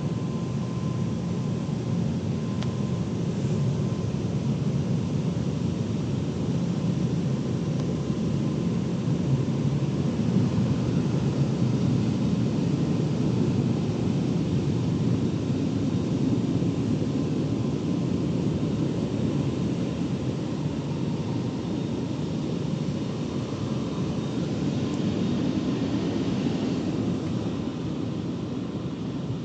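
Automatic car wash tunnel machinery running: a steady rumble with no clear breaks.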